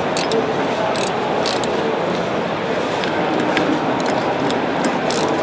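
Steady hall hubbub with irregular sharp metallic clicks and clinks from hand tools working on car parts.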